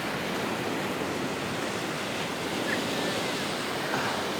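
Steady wash of waves breaking on the shore.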